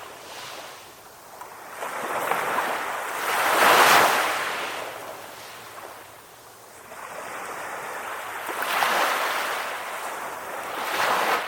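Calm ocean waves washing in and out in slow surges. The loudest wave breaks about four seconds in, and smaller ones come in near the start, about nine seconds in and near the end.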